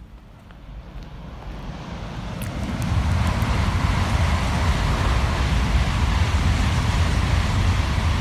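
A train passing close by, unseen: a rushing roar with a deep rumble that builds over about three seconds and then holds steady. Light footsteps on the paved path are heard at first.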